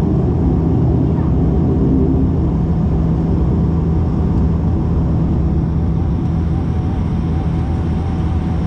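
Turboprop engines of a De Havilland Canada Dash 8-400, Pratt & Whitney Canada PW150As, running steadily during taxi, heard inside the cabin: an even propeller drone with a low hum.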